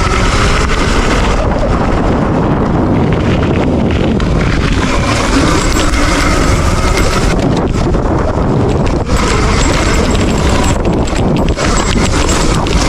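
A dirt bike running a timed lap at speed: a loud, steady rush of wind noise on the microphone with the bike running under it.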